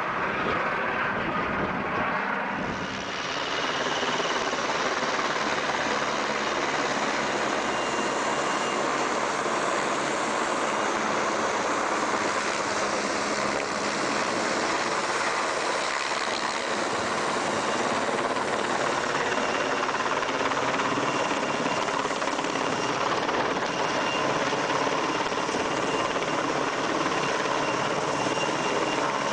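Helicopter in flight: a steady, dense noise of rotor and turbine, with a shift in the sound about three seconds in.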